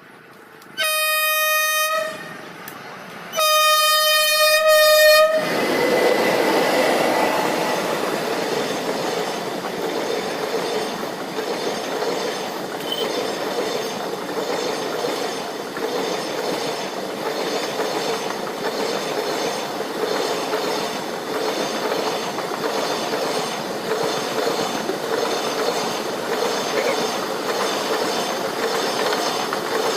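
Train horn sounding two single-note blasts, a short one then a longer one about a second and a half later. The steady noise of the train running on the rails follows and continues.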